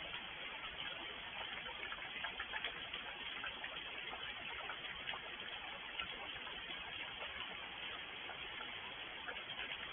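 Steady rainfall: an even hiss of rain with many separate, sharp drop hits scattered through it.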